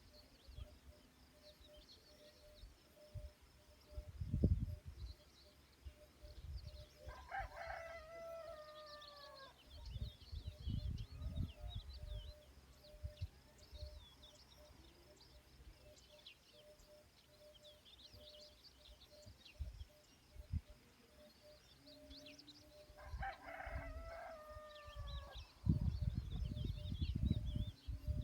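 A rooster crowing twice, about fifteen seconds apart, each crow a couple of seconds long and trailing downward at the end. Small birds chirp throughout, and there are bouts of low rumbling.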